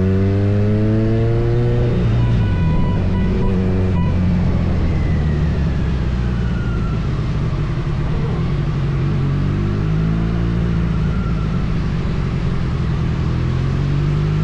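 Kawasaki Z900 inline-four engine under way. The engine note climbs for about two seconds, then drops back, as on a gear change, and runs steadily after that over a constant rush of wind and road noise.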